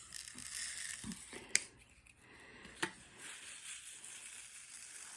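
Soft rustling of something being handled, with two light sharp clicks about a second apart near the middle.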